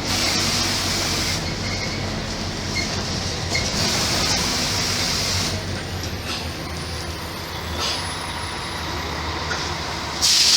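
Mercedes-Benz O-500MA bus with ZF transmission running, a steady low engine hum under a hiss that swells twice and then eases off. A sudden louder burst comes near the end.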